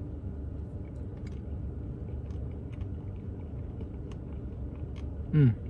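Steady low rumble in the background, with a few faint clicks of a spoon in the Blizzard cup. Near the end comes one short, loud falling "mm" from the man tasting it.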